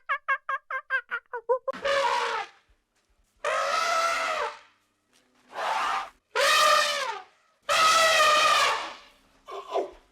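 Rapid run of short clucking notes that stops just under two seconds in. Then come about six long, pitched bird calls, each lasting around a second, with short silences between them.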